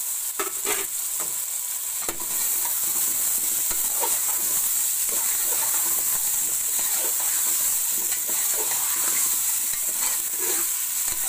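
Cubed potatoes, tomato masala and green chillies sizzling in hot oil in a metal pot while a metal spoon stirs and scrapes through them. The steady sizzle gets louder about two seconds in.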